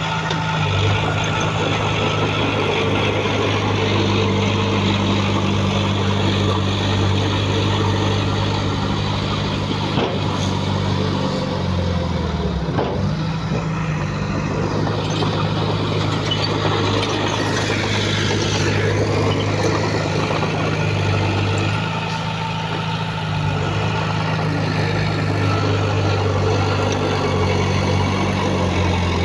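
Heavy diesel engine of earthmoving machinery running steadily at a constant speed, with a brief dip in pitch about halfway through.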